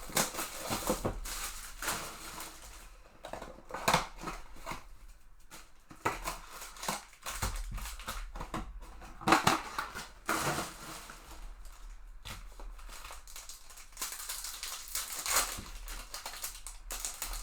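Trading-card box and packs being opened and handled: wrappers crinkling and tearing, cardboard and cards scraping and sliding, as a run of irregular crackles with a few louder rips.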